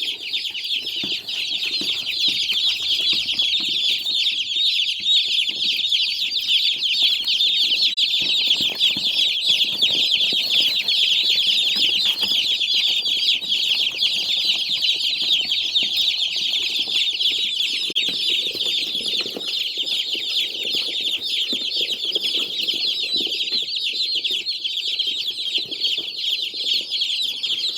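A flock of meat chicks peeping continuously, a dense, unbroken chorus of high-pitched cheeps.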